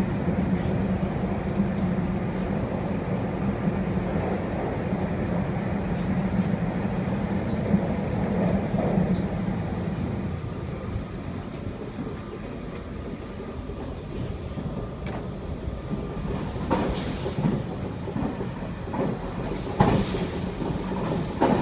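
Running noise inside a moving passenger train carriage: a steady rumble with a low hum, and several sharp knocks and rattles in the last few seconds as the car sways.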